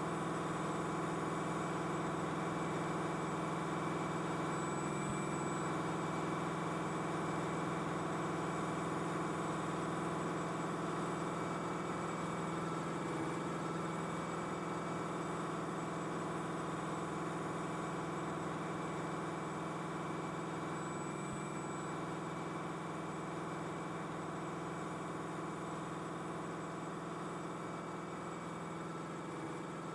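BNSF freight train with Amtrak passenger cars rolling slowly past: a steady diesel engine drone with many fixed tones, easing off slightly in level toward the end.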